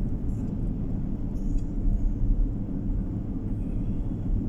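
Steady low road and engine rumble of a moving car, heard inside the cabin.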